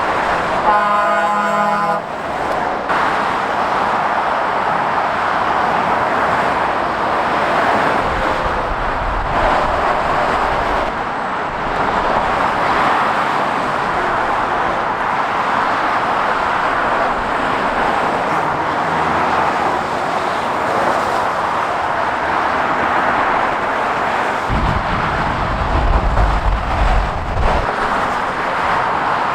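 Steady motorway traffic: tyre and engine noise of passing lorries and cars. A vehicle horn sounds once for about a second and a half near the start. A heavier low rumble comes from big vehicles going by about eight seconds in and again near the end.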